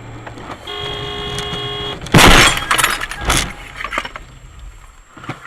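A car horn sounds steadily for about a second, then a loud vehicle crash: a sudden impact with breaking glass, followed by debris clattering for a couple of seconds and a few scattered knocks.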